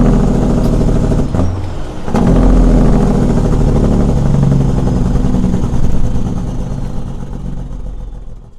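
Straight-piped Caterpillar 6NZ (3406E) inline-six diesel of a Peterbilt 379 running loud under load. It breaks off briefly about a second and a half in, as on a gear change, then pulls steadily again before fading out near the end.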